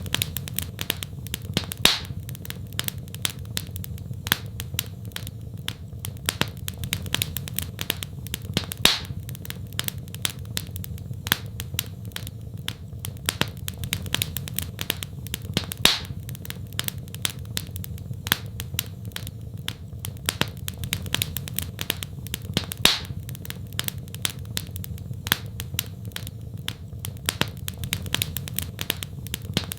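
Wood fire crackling in a fireplace: a dense run of small sharp pops, with a few louder snaps every several seconds, over a steady low rumble.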